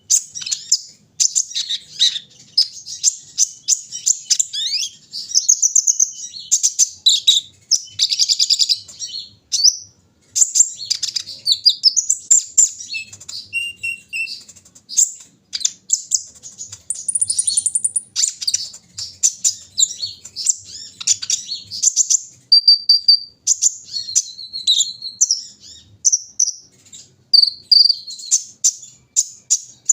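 Sunbird (kolibri ninja) singing: long runs of rapid, high-pitched chirps and twittering trills with only brief pauses, and a few short steady whistled notes near the end.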